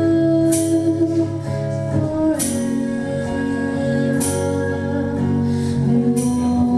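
Slow acoustic music led by guitar, with long held notes and a sharp stroke about every two seconds.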